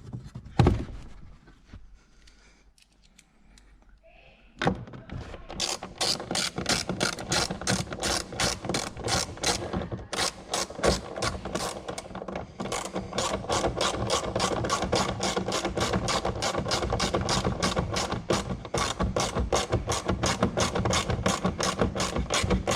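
Hand ratchet wrench clicking, about three clicks a second, starting about five seconds in and carrying on steadily; a single knock just before that.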